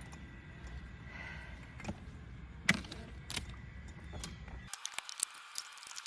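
A beehive being opened and handled: scattered sharp clicks and knocks over a low rumble. The rumble cuts off suddenly about three quarters of the way through, and a run of quick small clicks follows.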